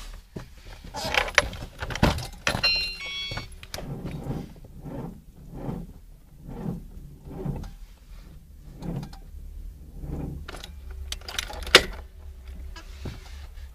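Car keys jangling and clicking at the ignition, then the car's engine being cranked in deep frost. It turns over slowly in a laboured rhythm of about one stroke a second and does not catch, and there is a sharp click near the end.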